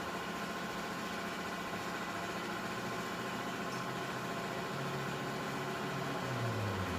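Car engine running steadily with a constant hum, its pitch dropping about six seconds in.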